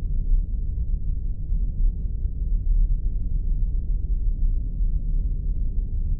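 Spaceship sound effect: a steady deep rumble that sits all in the low end, with nothing higher than a dull hum.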